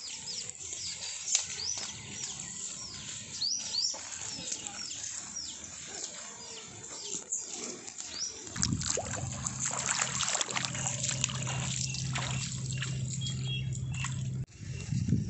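Birds chirping over and over in short calls that fall in pitch, with crackling rustles of leaves and stems as someone walks through the plants. About halfway through a steady low hum sets in and runs on until it breaks off suddenly near the end.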